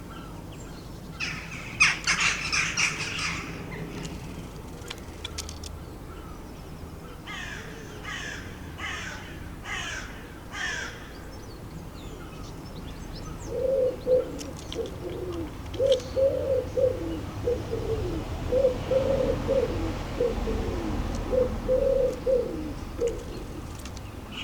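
A common wood pigeon cooing in repeated low phrases through the second half. Before it come higher bird calls: a short dense chatter near the start, then a series of about five falling notes.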